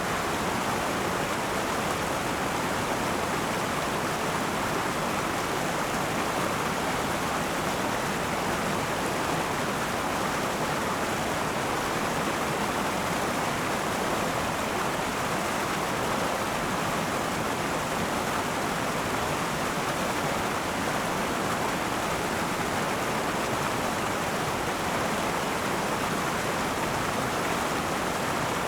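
River water flowing over rocks in a steady rushing babble, with no change in level.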